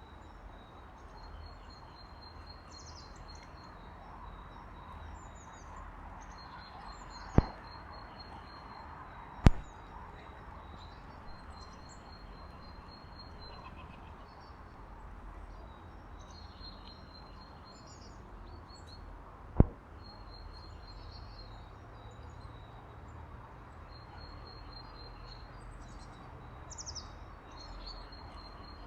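Small songbirds, tits among them, calling with many short high chirps and thin high notes over a steady outdoor hiss. Three sharp, loud knocks stand out: two close together about a quarter of the way in, and one about two-thirds through.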